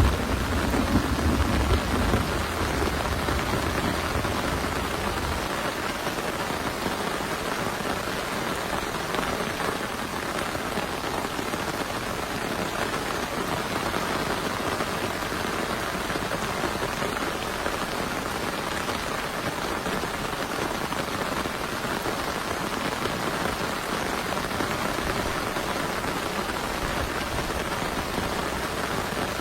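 Heavy rain falling steadily in a thunderstorm, with the tail of a low thunder rumble fading out over the first five seconds or so.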